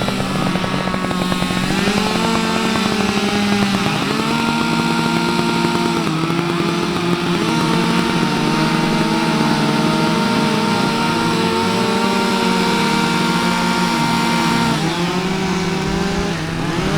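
Four two-stroke chainsaws, Stihl and Husqvarna, running together at once, their engine notes overlapping at different pitches. They rise in the first few seconds, hold fairly steady through the middle, and shift again near the end.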